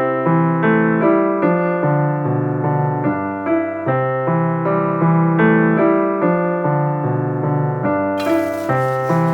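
Background piano music: a steady run of notes about two a second, with a hiss rising in the treble from about eight seconds in.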